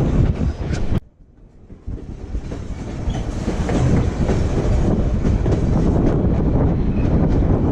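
Passenger train rolling along the rails, heard from aboard as a steady rumble with wheels clattering over the track. The sound cuts out abruptly about a second in, then builds back up within a second or so.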